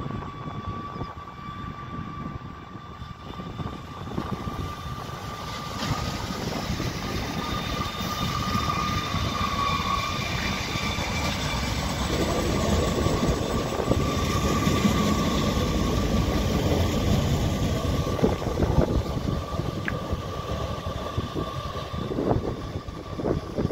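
Tyne and Wear Metrocar train (Metrocars 4043 and 4049) moving off and running past close by. The rumble of its motors and wheels builds to a peak about halfway through, then eases as it pulls away, with a steady whine throughout and a few sharp clicks near the end.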